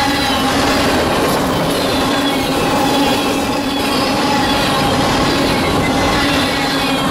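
Freight cars of a mixed manifest train rolling past at speed: a steady rumble of steel wheels on rail, with faint thin squealing tones from the wheels. The last car goes by near the end.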